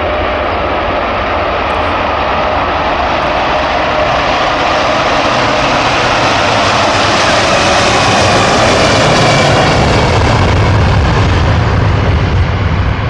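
Boeing 747 jet engines running at high power. The sound grows louder, with a whine that rises in pitch, peaks about nine seconds in, then eases off near the end.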